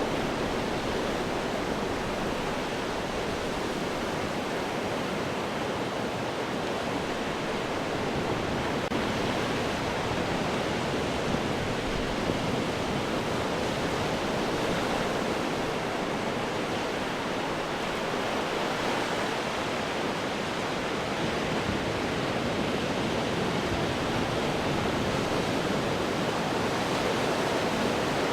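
Ocean surf breaking against rocks: a continuous, dense wash of water noise that holds steady, with no single wave standing out.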